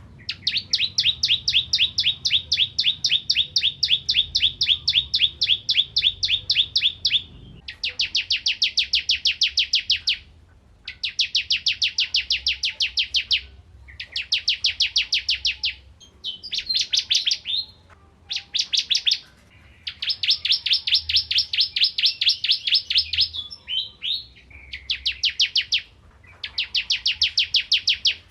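Ciblek kristal (crystal prinia) singing: fast, even trills of repeated high chirps, in phrases of one to seven seconds with short pauses between them. The longest phrase comes first.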